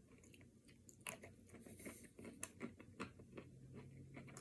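Faint biting and chewing of a chocolate-coated ice cream bar, its crispy coating crunching in scattered small clicks, a little louder about a second in and again around two and a half and three seconds.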